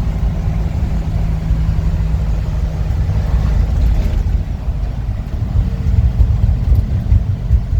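A 1952 Ford F-2 pickup's engine and drivetrain running on the move, heard from inside the cab as a steady low rumble. The engine note shifts lower about four seconds in.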